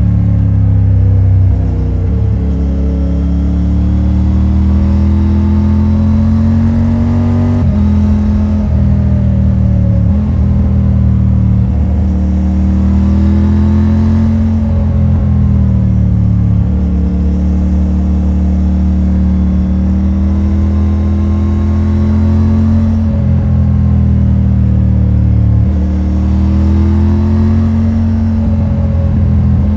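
Triumph Tiger 900 Rally Pro's three-cylinder engine on its stock exhaust, accelerating under way. The pitch rises steadily for several seconds, then drops sharply at each upshift, several times over.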